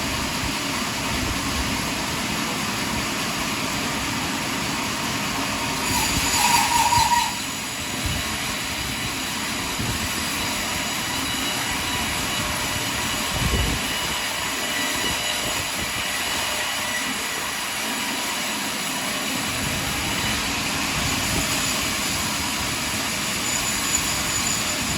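Sawmill cutting a large pine log: a steady mechanical rush with a faint high whine. It swells briefly about six seconds in with a short warbling tone, and there is a short low knock about halfway through.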